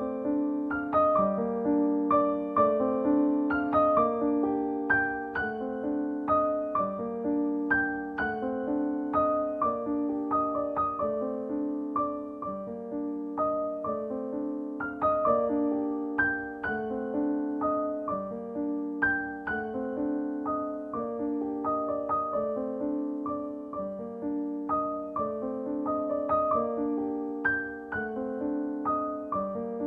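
Piano background music: a gentle, repeating figure of single notes over low chords that change about every two seconds.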